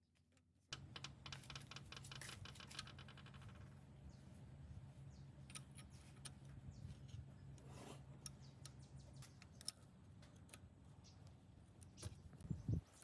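Faint clicks and light rattling, with a quick run of ticks in the first couple of seconds and scattered sharp clicks later, over a low steady hum that stops about nine seconds in.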